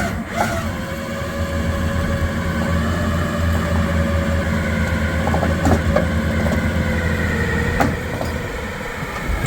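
A vehicle's engine running steadily under load, with a low hum and a higher whine that wavers slightly, as it drags a load whose wheels won't turn. A few light knocks sound over it.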